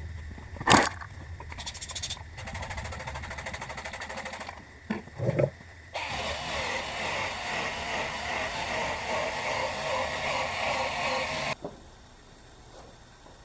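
Cordless 12-volt sander/polisher running a 2000-grit sanding disc across a plastic headlight lens: a steady machine-and-sanding noise that wavers as the pad moves, then cuts off sharply near the end. Before it come a sharp click and a few seconds of quicker ticking and rubbing as the tool is handled.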